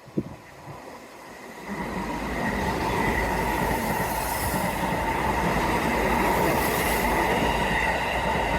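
Seibu 30000 series electric train running through the station at speed without stopping: a brief click just after the start, then the rumble of wheels on rail swells in about two seconds in and holds loud, with a steady high whine over it.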